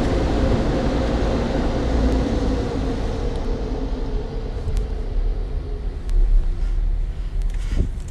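Steady rumbling noise from inside a car at a car wash, with a humming tone that fades out after about three seconds and a few faint clicks.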